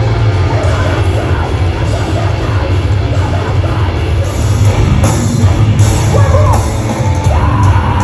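Live heavy rock band playing loud, with heavy guitars, drums and yelled vocals; cymbal crashes come in regularly from about halfway through.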